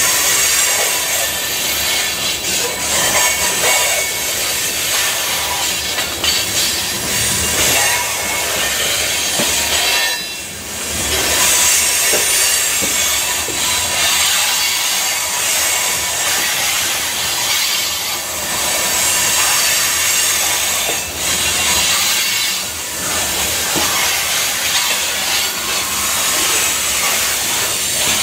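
Freight train of covered grain hopper cars rolling past close by: steel wheels running on the rails with a steady loud hiss and thin high squeals, dipping briefly about ten seconds in.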